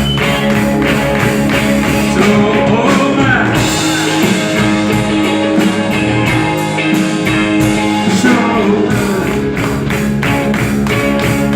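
Rock band playing an instrumental passage: guitar over bass and a steady drum beat.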